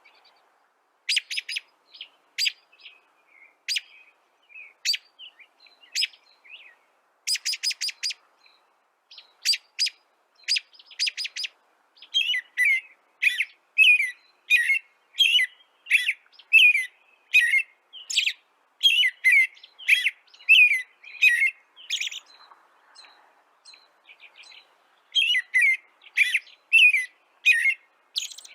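A bird chirping in short, sharp notes, against no background noise. A quick run of notes comes about a quarter of the way in, then a long steady series of chirps, each one dropping in pitch. The series breaks off for a few seconds about three quarters of the way through, then resumes.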